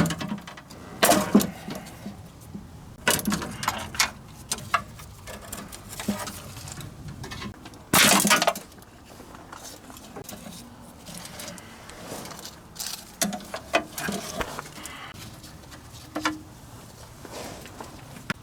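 Irregular sharp metallic clanks and clinks of hand tools and car parts being handled, the loudest right at the start and a longer one about eight seconds in.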